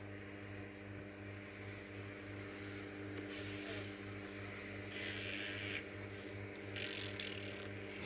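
Microwave oven running with a low, pulsing hum, with bursts of hissing crackle about five and seven seconds in from plasma flaring over a glowing pebble inside.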